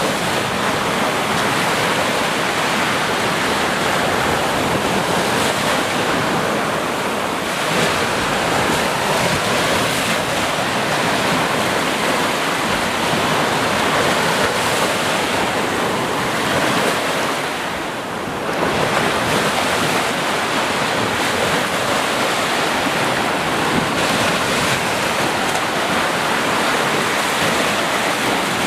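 Sea surf: waves breaking and washing on the shore in a steady, loud rush, easing briefly about two-thirds of the way through.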